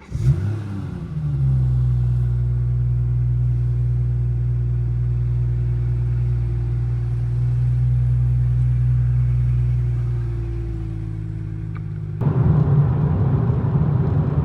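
BMW M240i's B58 turbocharged inline-six engine starting up: it fires with a loud flare, then settles into a steady fast idle that eases slightly lower. Near the end the sound suddenly turns louder and rougher.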